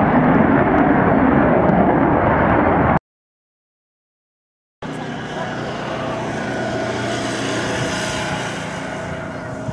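Loud aircraft noise that cuts off suddenly about three seconds in. After a second or two of silence, an aircraft engine comes in with steady tones, swelling and then easing off as it passes.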